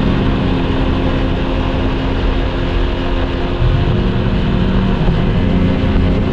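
Motorcycle engine running under way, with heavy wind and road noise. The engine pitch drops and climbs back up about halfway through and again near the end, like revving up through gear changes.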